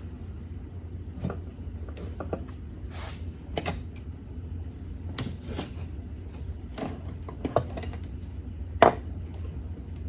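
Metal hand tools clinking and clattering as someone rummages through them looking for the right size, in scattered short knocks, with a louder clank near the end.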